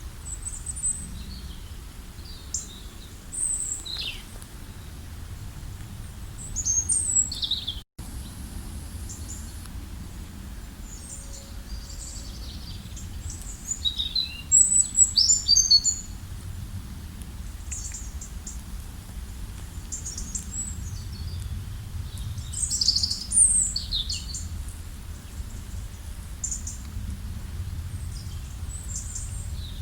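Several small birds chirping and singing in short, high, scattered calls and trills, busiest about halfway through, over a low steady rumble.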